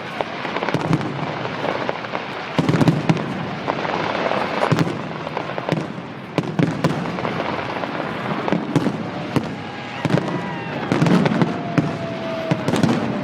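Fireworks display: a continuous run of bangs and crackling reports, many overlapping. Near the end a couple of whistling tones glide in pitch, one rising and one falling.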